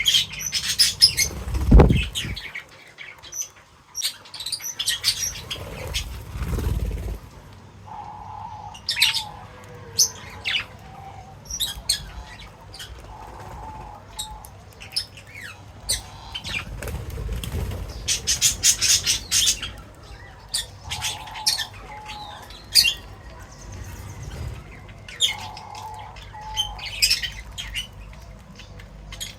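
Small feeding birds chirping in quick, short calls, with wing flaps, a lower call repeated several times, and a few low thuds, the strongest about two seconds in and again around six to seven seconds in.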